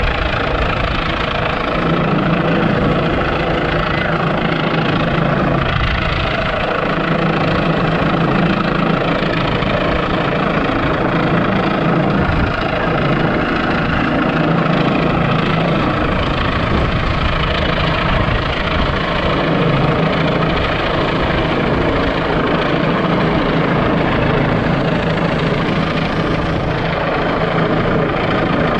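Helicopter hovering, its rotor beating loud and steady.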